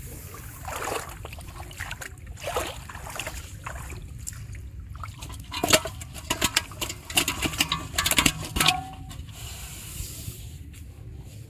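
Splashing and sloshing in shallow paddy water as fish are grabbed by hand, with soft splashes early on and a quick run of sharp splashes from about six to nine seconds in.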